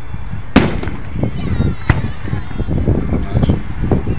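Aerial fireworks shells bursting: a loud bang about half a second in and a second, sharper crack near the two-second mark, over a continuous low rumble of the display.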